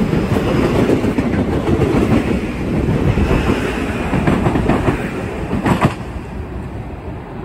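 Metro-North M8 electric multiple-unit train running past at speed, its wheels rumbling and clacking over the rail joints. The sound fades over the last couple of seconds as the rear of the train pulls away.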